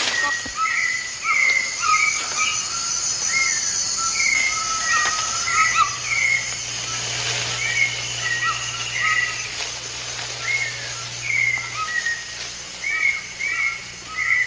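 Rainforest birds calling: short, repeated curved chirps at two pitches, one or two a second, with a steady high buzz underneath.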